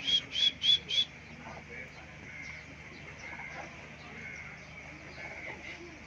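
A bird chirping: four quick, loud, high notes about a quarter second apart within the first second.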